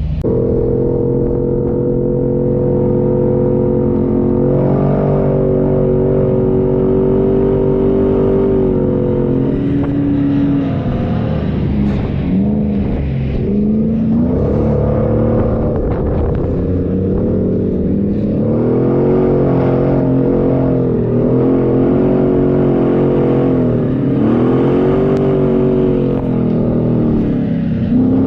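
A 4x4's engine running under load, held steady for about ten seconds, then its revs rising and falling again and again as it is driven over sand dunes.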